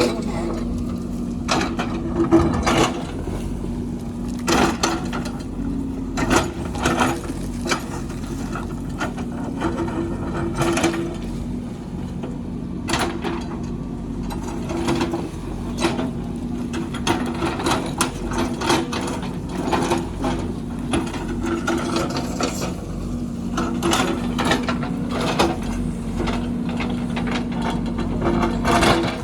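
JCB backhoe loader's diesel engine running steadily under work, with frequent irregular knocks and clatter from the machine digging.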